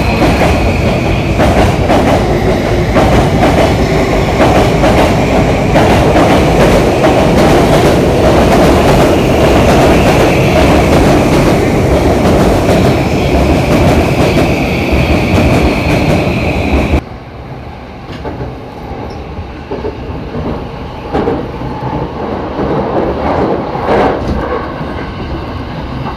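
A train running loud and close, a heavy rumble and clatter with a high steady squeal from the wheels. About two-thirds of the way in it drops suddenly to a quieter running sound with scattered knocks.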